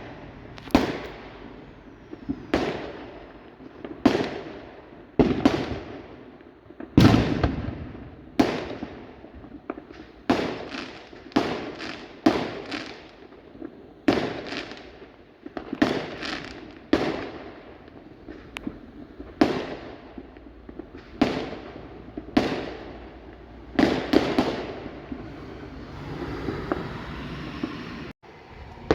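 Aerial fireworks going off in quick succession: sharp bangs about once a second, each dying away in an echoing tail, with a softer crackling spell near the end.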